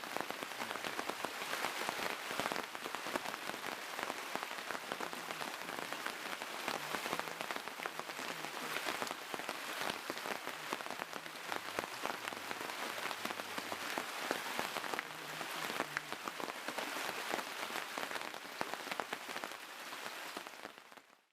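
Rain pattering steadily on a surface, a dense crackle of drops that fades out at the very end.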